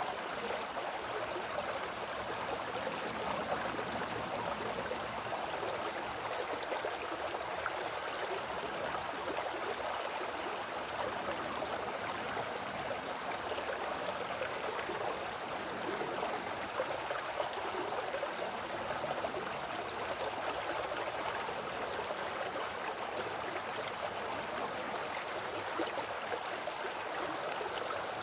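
Small woodland creek flowing over rocks, a steady babbling rush of water.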